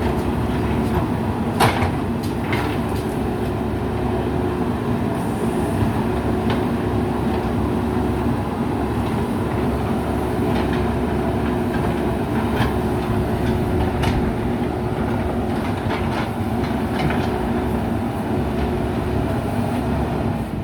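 JCB backhoe loader's diesel engine running steadily under load, with scattered metallic clanks and knocks; the sharpest knock comes about two seconds in.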